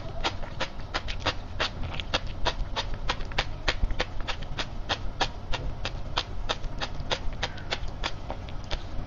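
Sea grapes being chewed: a quick, even run of small crisp pops, about four or five a second, as the seaweed's beads burst between the teeth.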